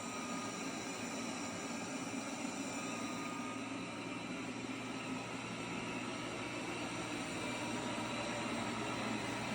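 Lubluelu L20 robot vacuum running: a steady whir of the suction fan with a low motor hum and a faint high whine.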